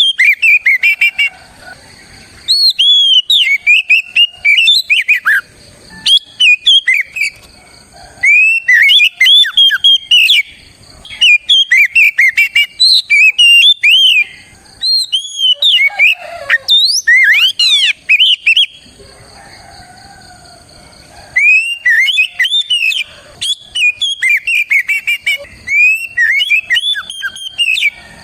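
Oriental magpie-robin (kacer) singing loud, rapid whistled phrases of rising and falling notes, broken by short pauses and one longer pause about two-thirds of the way through.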